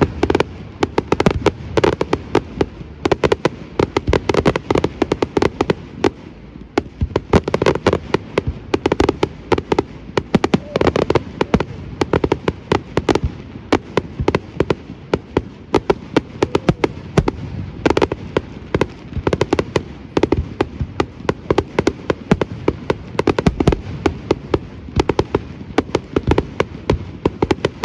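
Fireworks display: a dense, continuous barrage of aerial shells bursting and crackling, several bangs a second.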